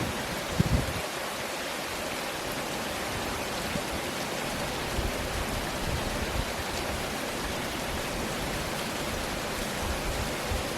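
Steady, heavy rainfall: an even hiss of rain, with a brief low bump about half a second in.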